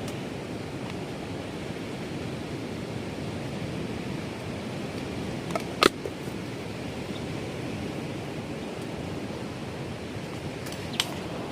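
Strong wind making a steady rushing noise, with a few sharp clicks about six seconds in and again near the end.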